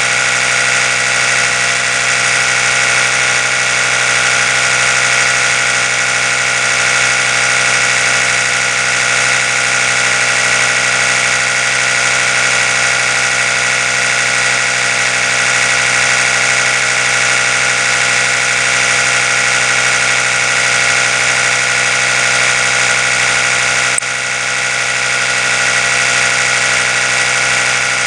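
Oral-B electric toothbrush running continuously, a steady buzz with many even tones. It dips slightly in level about 24 seconds in.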